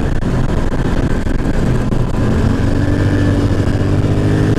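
ATV engine running loud under the rider, with gravel and road noise; about halfway through the engine note rises as it accelerates, then holds higher.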